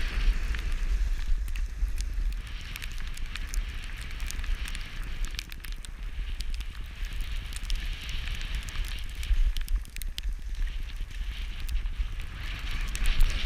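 Skis hissing and crackling over snow, the hiss swelling and fading every few seconds, with wind rumbling on the microphone throughout.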